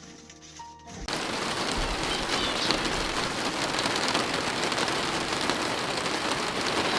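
Quiet music for about the first second, then a sudden switch to a steady patter of rain.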